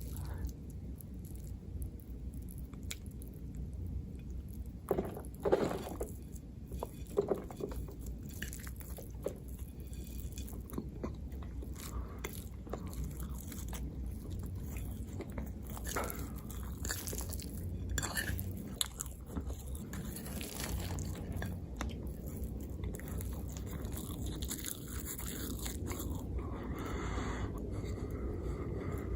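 Close-miked eating: a person chewing and biting food, with irregular wet clicks and mouth sounds. The loudest bites come about five to seven seconds in.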